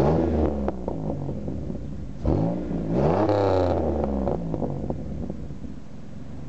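1994 Voyager minivan's engine revved twice through its dual-tip exhaust. A short blip right at the start falls back within about a second and a half, then a longer rev about two seconds in is held briefly and drops back to idle. There are a few crackles as the revs fall.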